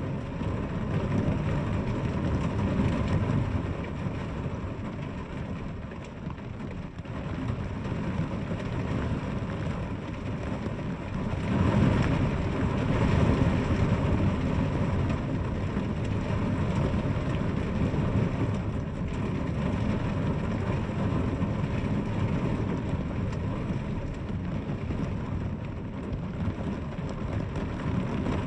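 Steady rain with a deep rumble beneath it, swelling louder for a few seconds about twelve seconds in.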